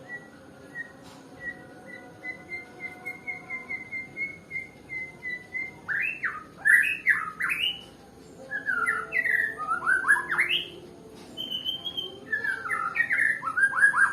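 White-rumped shama singing: a run of short, evenly spaced notes for about six seconds, then loud bursts of rapid sweeping whistled phrases, with one higher held whistle partway through.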